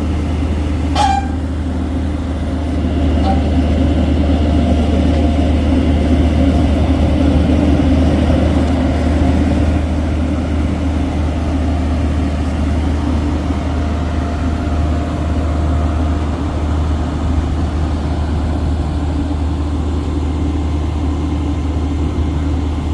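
Heavy diesel engine running steadily with a deep drone that swells a little, with a sharp click about a second in.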